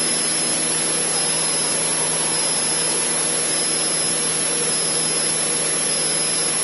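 Cessna 152's four-cylinder Lycoming piston engine and propeller droning steadily in cruise, with airflow noise, heard inside the cabin.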